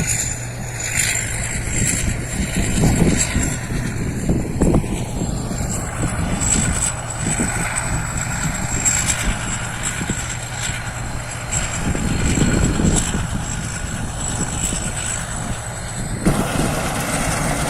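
Rice combine harvester running steadily while harvesting: a continuous engine drone with a steady high-pitched whine above it.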